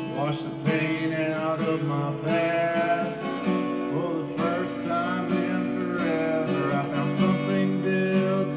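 Acoustic guitar playing, strummed and picked, at the close of an acoustic country song.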